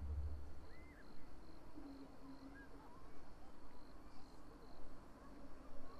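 Quiet lull with faint, distant crowd voices and an insect chirping in a steady high-pitched pulse, about three chirps a second. A brief low rumble sounds in the first second.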